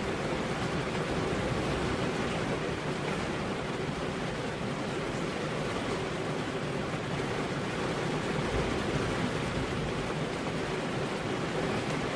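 Steady rain falling, an even hiss with no distinct thunderclap.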